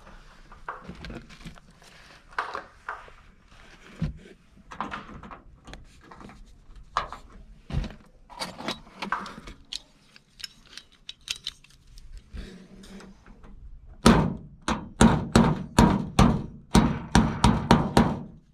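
Scattered handling clicks and knocks, then near the end a fast run of loud sharp knocks, about three a second, as a condensate drain-pan float switch is knocked into place on the pan's edge.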